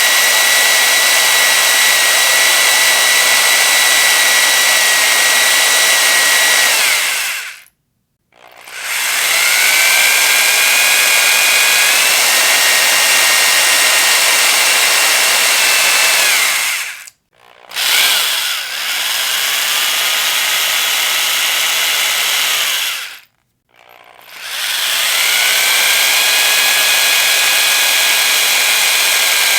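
Electric power drill running in bursts of several seconds with short pauses between them. Its motor whine rises in pitch as it spins up, holds steady, and drops as it winds down. The whine steps up a little partway through the second run, and the third run starts with a brief blip.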